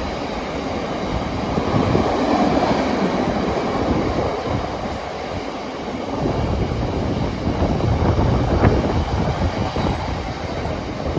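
Freight train hauled by a Class 66 diesel locomotive passing through the station, its wagons rolling steadily past on the rails.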